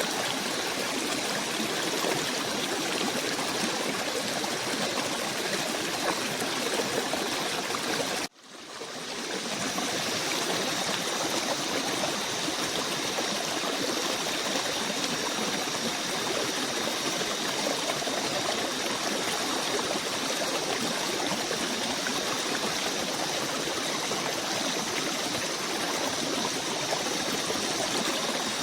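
Stream water running in a steady rush. About eight seconds in it cuts out abruptly and fades back in over a second or two, like a loop join in the recording.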